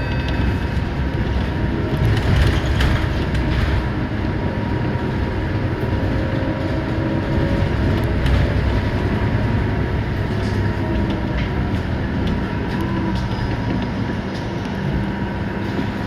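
Inside a moving Scania K230UB city bus: its engine running with road noise, light interior rattles and a faint steady whine.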